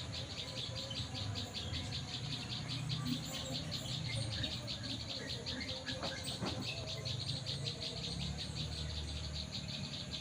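Insects, crickets or cicadas, trilling in a steady, rapid, evenly pulsed high-pitched chorus, with a few short bird chirps over it.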